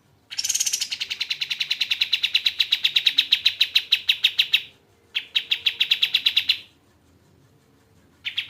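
Kapas tembak songbird calling in fast, even rattling trills of about ten notes a second. A long trill of about four seconds is followed, after a brief break, by a shorter one, and a third begins near the end.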